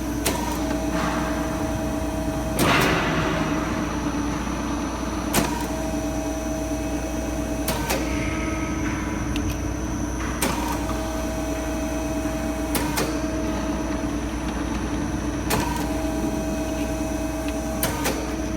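TB-30A thread rolling machine running with a steady hum and a held whine, broken by a sharp clack about every two and a half seconds, one per rolling cycle.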